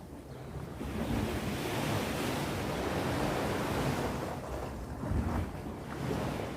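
Sea waves breaking and washing on the shore: a wave swells up about a second in, surges for a few seconds, then draws back.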